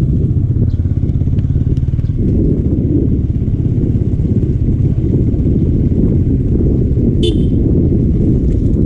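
Yamaha R15 V4's single-cylinder engine running at speed, mixed with heavy wind buffeting on the microphone. A brief high-pitched sound, like a horn beep, comes about seven seconds in.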